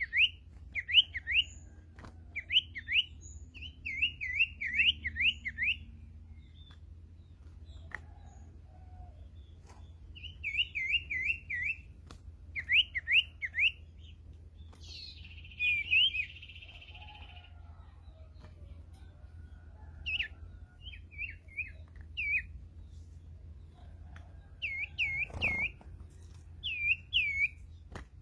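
Sirtu ekor hitam calling in bursts of quick, looping whistled notes, three to six at a time, with pauses between runs and one longer buzzy note midway: the call used to lure this bird into a trap.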